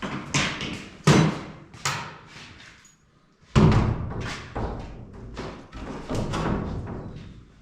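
A series of knocks and thuds from objects being handled and set down in a workshop, with a heavy low thump about three and a half seconds in, followed by more clatter.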